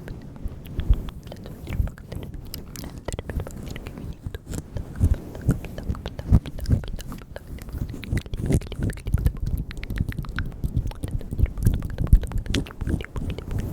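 ASMR mouth sounds made close to the microphone: a dense, irregular run of wet clicks and smacks, with low thumps among them.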